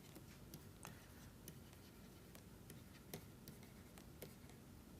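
Near silence with faint, irregular ticks and scratches of a pen drawing a diagram.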